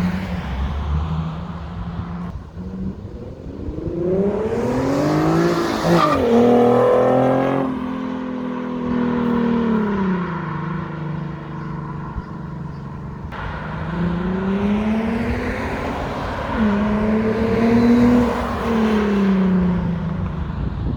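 Nissan 370Z's 3.7-litre V6 through a muffler-delete exhaust, straight pipes back from the stock system with no muffler. The engine climbs in pitch, holds briefly and falls back, twice, with steady running in between.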